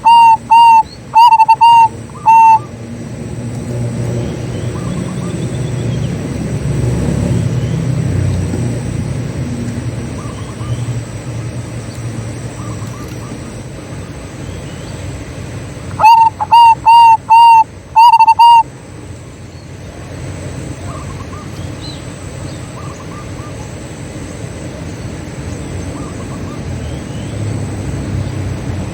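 Zebra dove (perkutut) singing two phrases of short, rapid cooing notes, one at the start and one about sixteen seconds in. Between them a steady low rumble and faint chirps of small birds.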